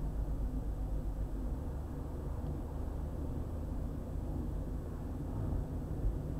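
Road noise of a car driving on a highway: a steady low rumble of tyres and engine.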